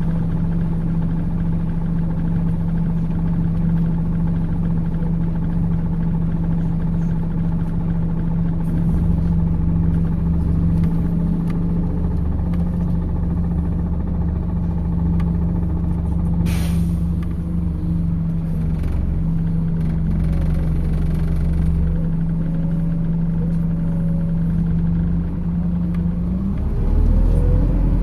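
MAZ 206.067 city bus heard from inside the cabin, its engine holding a steady note with a low rumble underneath and a short air hiss about halfway through. Near the end the engine note rises as the bus pulls away.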